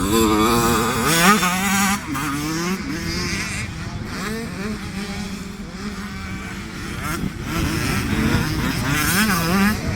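Several youth motocross bikes racing, their engines revving up and down with the pitch repeatedly rising and falling as they accelerate and shift. Loudest in the first couple of seconds, easing through the middle, then building again near the end.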